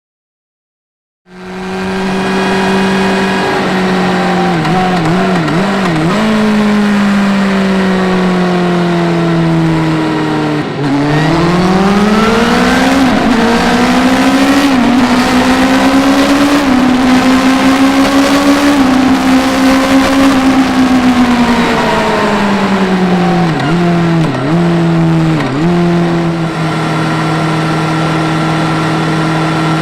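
Suzuki GSX-S1000's inline-four engine running loudly, starting about a second in. Its revs hold steady with a few quick dips, sink, climb and hold, sink again with more quick dips near the end, and then settle steady.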